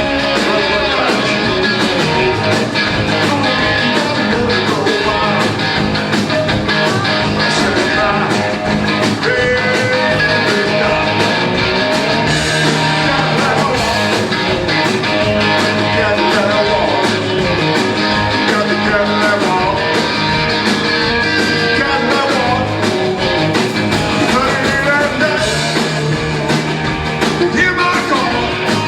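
Live rock and roll band playing loudly over a steady drum beat.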